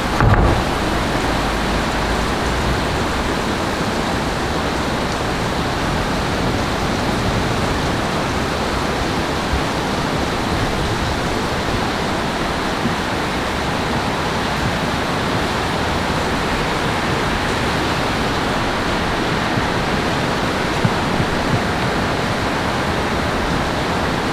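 Steady, loud rushing of water, the even hiss of heavy storm rain and falling water, with a brief low thump just after the start.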